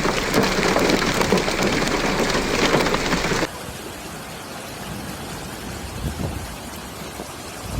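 Heavy rain pelting a hard surface, a dense patter of many fine hits. About three and a half seconds in it drops abruptly to a quieter, steady rushing noise.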